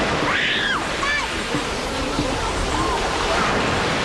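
People's voices calling out in short, high, rising-and-falling cries over a steady rushing background noise.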